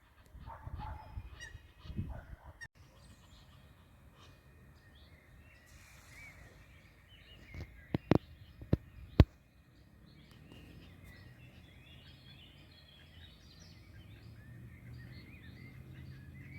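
Birds calling, with honking calls and many short high chirps throughout. Four sharp clicks come close together about eight to nine seconds in, and a low steady hum rises in the second half.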